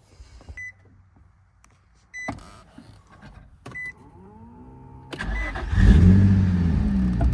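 Three short high beeps, then a car engine comes up loud about five seconds in and revs up and back down.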